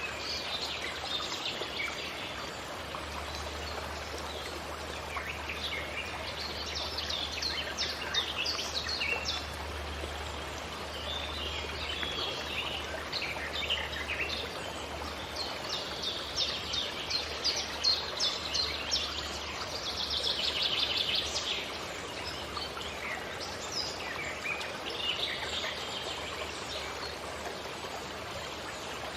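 Several forest birds singing and chirping in quick high calls, with a rapid trill about twenty seconds in, over a steady even hiss of background noise.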